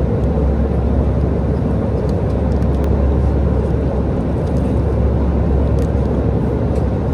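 Steady airliner cabin noise in flight: an even, deep rush that holds at one level, with a few faint clicks on top.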